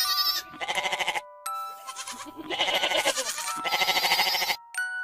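Goats bleating, about four wavering calls in a row, the longest lasting about two seconds, over soft chime-like background music notes.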